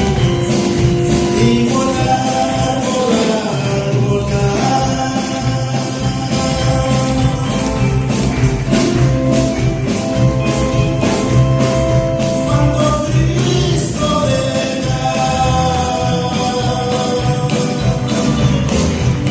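Live gospel-style church music: a tambourine keeps a steady beat under a held melody, with some singing over the band.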